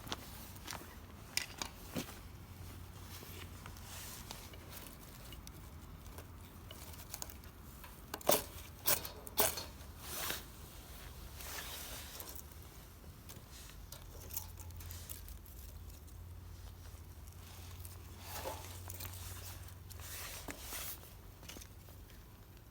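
Scattered small clicks, taps and rustles, a few sharper ones about a third of the way in, over a faint low steady hum.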